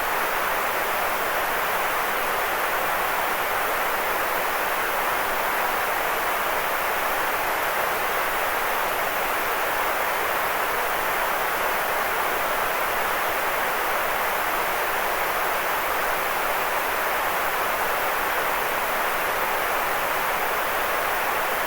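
Steady white noise for sleep: a constant, even hiss that never changes, strongest in the middle pitches with little deep rumble.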